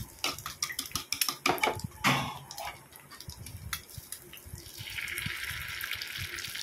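Egg-dipped bread frying in ghee on a cast-iron tawa, with scattered crackling pops for the first four seconds. About five seconds in, a steady sizzle sets in as egg-and-milk batter is spooned over the top of the bread.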